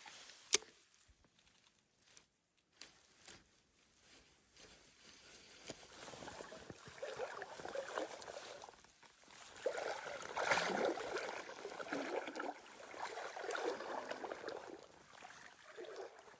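Irregular water sloshing and splashing, building from about six seconds in and strongest around ten seconds, after a single sharp click near the start.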